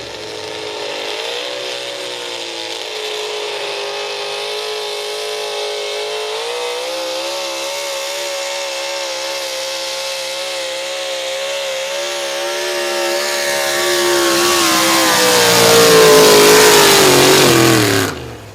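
Super stock pulling truck engine at full throttle during a pull, held at high revs with a slight waver. It gets louder near the end, then the pitch falls as it comes off the throttle.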